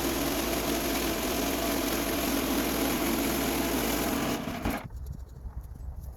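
Small gasoline engine of a portable bandsaw sawmill running steadily, cutting off abruptly about three-quarters of the way through. A few light knocks follow in the quiet.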